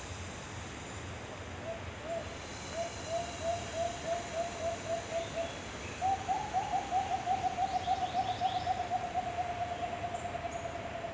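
A bird giving two rapid runs of low hoots, the second faster and longer and slowly falling in pitch, over a steady background hiss.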